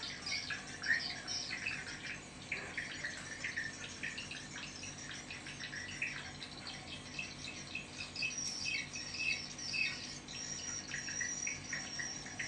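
Many swiftlets chirping and twittering at once in a dense, unbroken chorus. This is a swiftlet call-sound recording of the kind played to lure swiftlets into a bird house.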